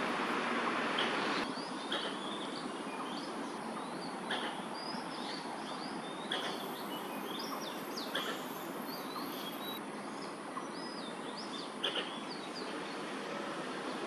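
Small birds chirping in short, varied notes, a few of them louder and sharper, over a steady hiss of distant city traffic.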